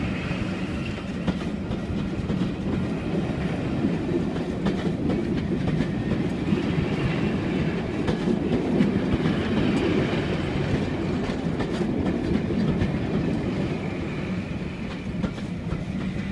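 DRS Class 37 diesel locomotives, English Electric V12 engines, running under power on a moving passenger train, with the wheels clattering over rail joints. The sound swells through the middle and eases a little near the end.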